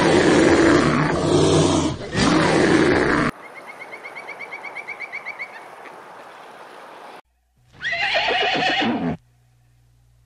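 Brown bears wrestling in water, with growling and splashing. Then a quieter run of quick, evenly repeated high calls that grows louder. About eight seconds in comes a horse's whinny, one call of about a second and a half falling steeply in pitch.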